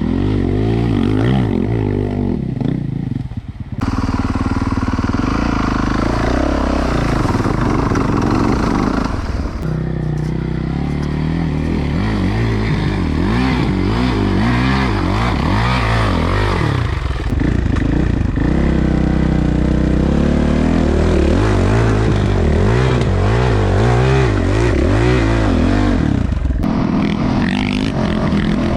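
Dirt bike engine revving up and down over and over as it is ridden along a trail, with pitch climbing and falling as the rider works the throttle through the gears.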